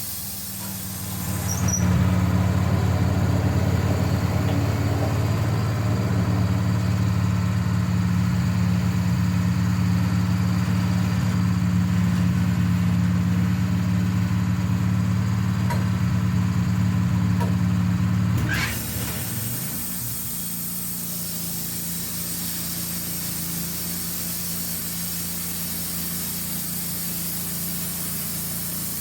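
Engine of a small sawmill running steadily; about a second in it throttles up and runs louder for around sixteen seconds, then drops back to a lower, steady running speed.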